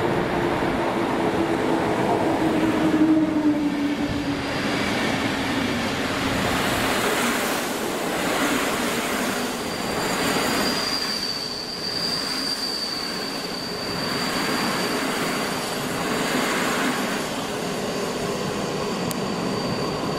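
A train running past on the line, a loud steady rumble and rush that swells and fades every couple of seconds. A tone falls in pitch over the first few seconds, and a thin, high, steady wheel squeal sets in about halfway through.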